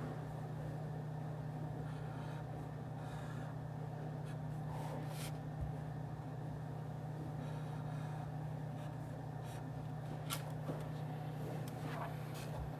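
Office white-noise ambience: a steady low hum like a ventilation or air-conditioning drone, with a few light clicks and rustles, the loudest about five and ten seconds in.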